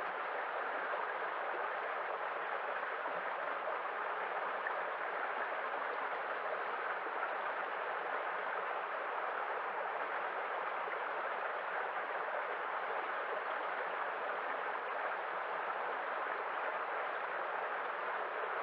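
Steady, even rushing of water, as of waves, with no single break or swell standing out.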